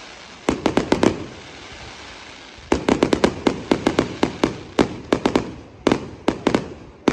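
Fireworks bursting overhead as sharp bangs: a quick cluster of four about half a second in, a short lull, then a fast, uneven run of bangs, several a second.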